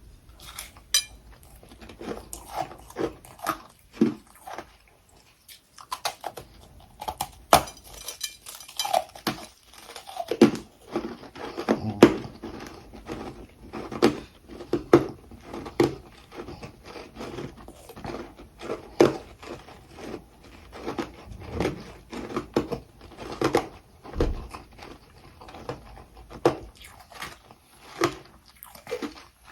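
Close-miked biting and chewing of freezer frost and crushed ice, with a steady run of sharp, brittle crunches about one to two a second.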